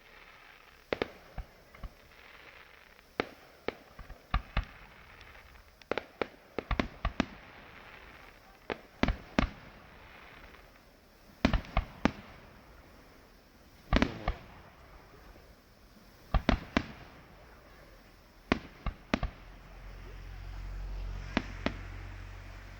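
Fireworks display: a rapid, irregular series of sharp bangs from bursting fireworks, often in quick clusters of two to four, with crackling between them. A low rumble swells up near the end.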